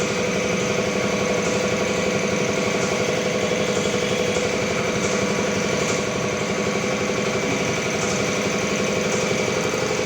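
A small engine running steadily at idle, with an even tone and no change in speed.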